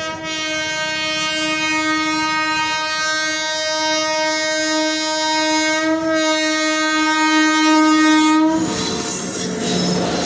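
Train horn sounding one long, steady blast for about eight and a half seconds, then cutting off. The rushing, squealing noise of the passing train's wheels on the rails follows.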